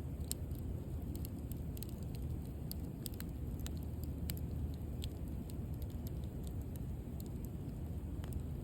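Wood bonfire burning: a steady low rush of flames with scattered sharp crackles and pops from the burning wood at irregular moments.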